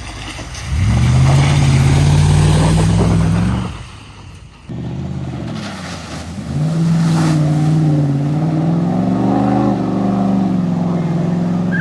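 Two-wheel-drive pickup truck engine revving hard and held at high revs for a few seconds, dropping off, then revving up again for a longer push with the pitch wavering and climbing.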